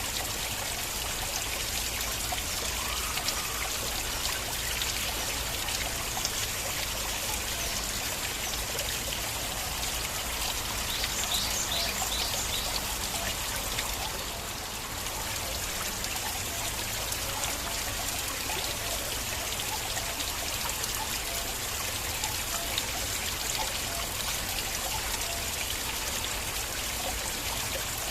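Flowing stream water running and trickling steadily, with fine splashing detail and a brief dip in loudness about halfway through.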